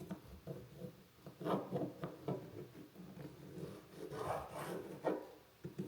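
Marking a wooden blank by hand: several short scratching strokes of a writing tool on wood, the strongest about a second and a half in and again around four and a half seconds, over a faint low hum.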